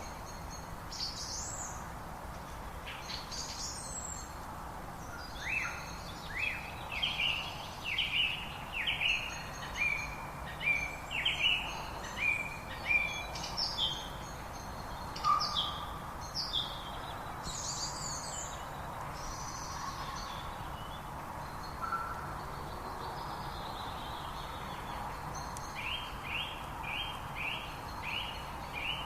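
Songbirds singing: strings of short, high, falling chirps and whistles, busiest in the middle, with a quick series of repeated notes near the end, over a steady outdoor background hiss.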